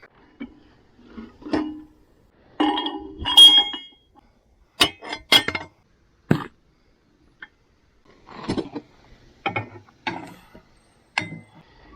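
Irregular metallic clinks and knocks, like tools and parts being handled, with a few sharp clicks about five to six seconds in.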